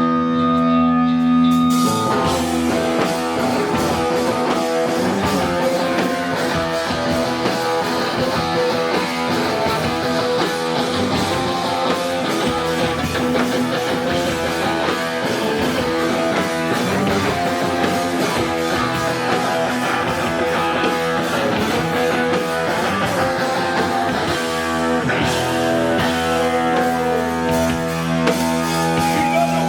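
Live rock band playing with electric guitars and drum kit: a held guitar chord rings alone, then the full band with drums and cymbals comes in about two seconds in. Near the end the guitar holds a chord again over the band.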